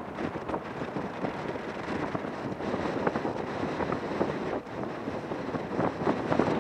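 Manifest freight train's cars rolling over the rails, a steady rumble with irregular clatter, mixed with wind on the microphone.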